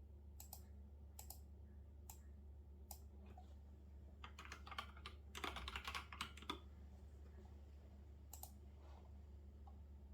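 Typing on a computer keyboard: single keystrokes about a second apart, then a fast run of keys for about two seconds in the middle, then one more key, over a faint steady low hum.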